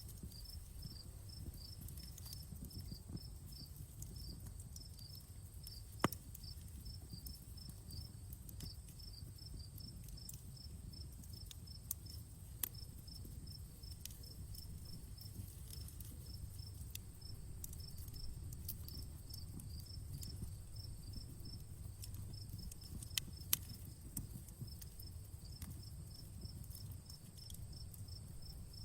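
Outdoor campfire burning with a low steady rumble and a few sharp crackling pops, the loudest about six seconds in. Insects, crickets by their sound, chirp in quick, evenly spaced pulses over the fire.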